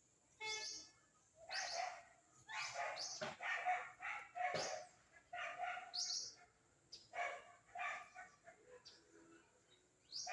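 A dog barking repeatedly in short bursts, mixed with short high bird chirps.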